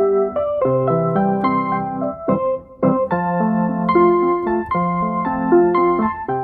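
Electric piano music: a melody of held keyboard notes over a lower line, changing every fraction of a second, with a brief break about two and a half seconds in.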